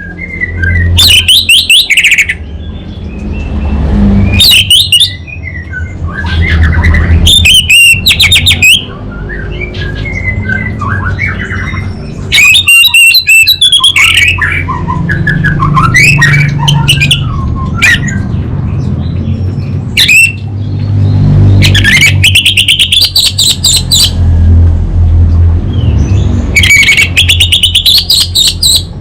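Orange-headed thrush (anis merah) in full song: several loud, rapid, buzzy trill phrases rising very high, each a second or two long, with softer varied twittering notes between them. A steady low hum runs underneath.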